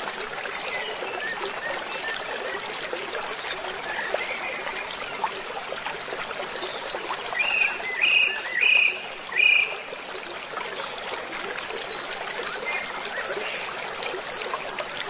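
Gulls calling over a steady rush of water. Scattered fainter calls give way to a run of four loud, short calls about halfway through.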